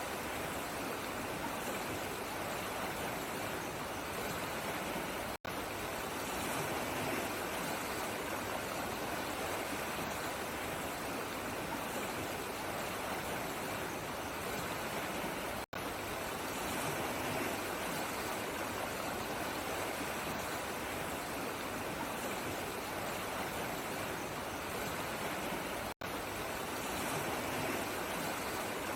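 Running water rushing steadily, cutting out for an instant three times, about every ten seconds.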